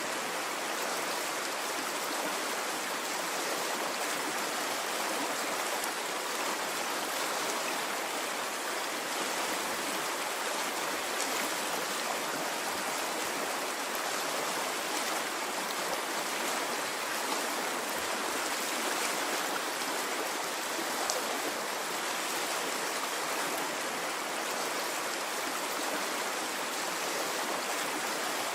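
Running water in a stream: a steady, even rush of flowing water with no change in level, with now and then a faint higher splash or drip on top.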